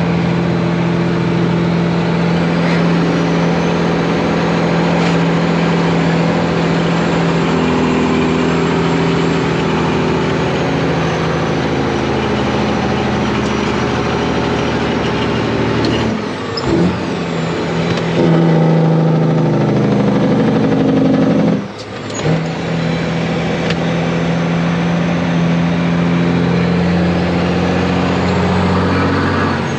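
Semi-truck diesel engine pulling under load, heard from the cab. The engine note drops out briefly twice, just past halfway and again about three quarters through, as at gear changes, and climbs between the two.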